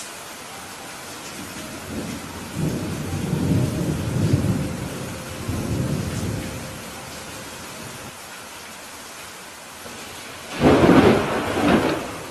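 Steady heavy rain with thunder: a low rolling rumble a couple of seconds in that dies away after several seconds, then a louder, sharper thunderclap near the end.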